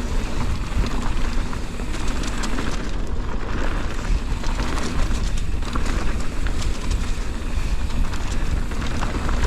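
Mountain bike riding fast down a loose, dusty dirt trail: wind on the microphone and tyre noise over the dirt, with frequent clicks and rattles from the bike over bumps.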